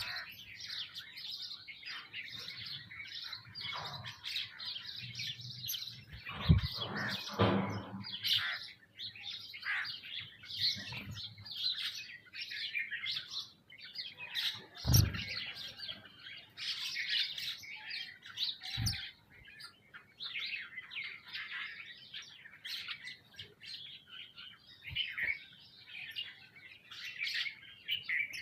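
Many small birds chirping and calling over one another without pause, the feeding flock of sparrows and mynas. A few short, louder knocks come through, the loudest about six seconds in, others near seven and a half, fifteen and nineteen seconds.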